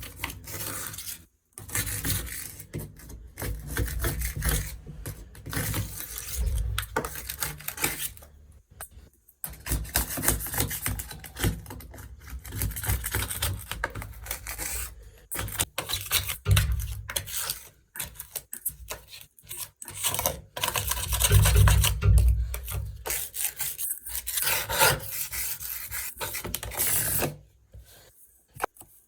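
Old silicone sealant being scraped and rubbed off the edge of a shower tray with a hand tool, in irregular strokes with brief pauses.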